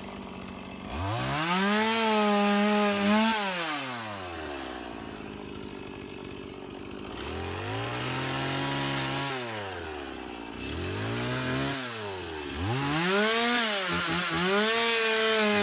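Two-stroke chainsaw revved up four times and let back down to idle in between, while cutting firewood.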